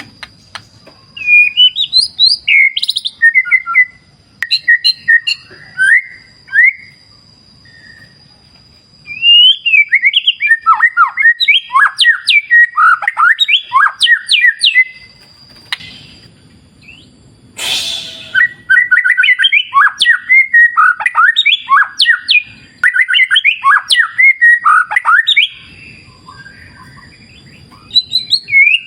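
White-rumped shama (murai batu) singing long bursts of rapid, varied whistled phrases with short pauses between them. A thin steady high tone runs beneath parts of it, and a single short burst of noise cuts in just past the middle.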